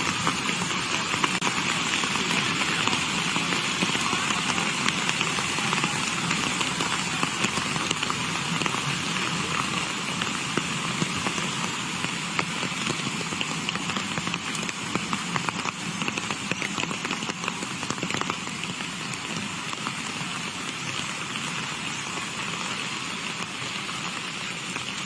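Heavy rain falling steadily: a constant hiss threaded with many small drop impacts, easing a little toward the end.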